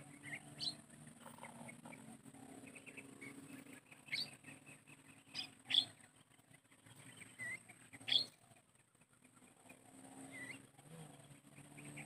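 Short, sharp bird calls, about five, the loudest a little before the middle and about two-thirds through, with a few softer chirps between them. A steady low hum and a steady high hiss run underneath.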